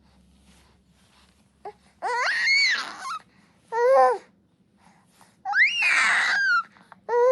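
A young pet bird, four months old, giving a series of loud, drawn-out squawking calls. There are four calls, each with a rising then falling pitch, and the third slides down from a high start.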